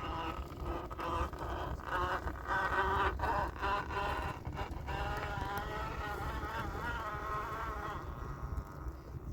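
Axial SCX10 II RC crawler's electric motor and geared drivetrain whining, the pitch rising and falling with the throttle as it crawls, with scattered clicks; the whine dies away near the end.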